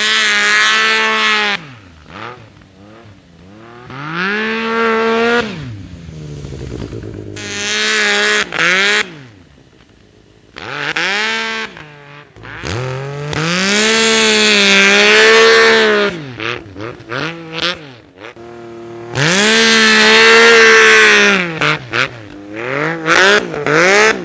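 Yamaha Nytro MTX snowmobile's four-stroke three-cylinder engine, breathing through a Barker's slip-on exhaust, revved hard again and again. Each time its pitch rises, holds for a second or more, then drops back to a lower, quieter running.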